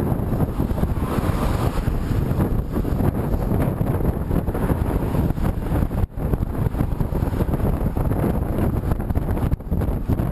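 Heavy wind buffeting the microphone of a camera on a bicycle ridden into a headwind, a dense low rumble that gusts unevenly and drops out for a moment about six seconds in and again near the end.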